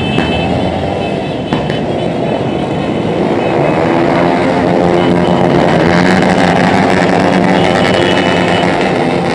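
Motorcycle engines running as a caravan of bikes rides past, their pitch rising and falling, busier and louder from about four seconds in.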